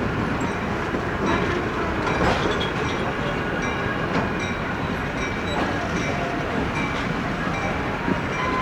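Passenger train cars rolling slowly through a rail yard, with a steady rumble and occasional clicks of the wheels over the rail joints.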